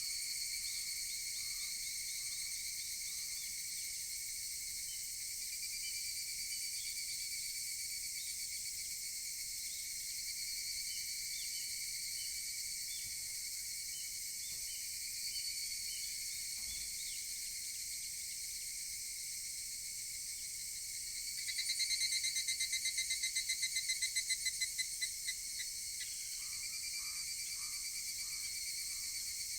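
Higurashi (evening cicadas) calling over a steady, high insect chorus; about two-thirds of the way through, one cicada close by gives a rapid pulsed call of about four seconds that swells and then breaks off. A few faint short chirps come near the start and near the end.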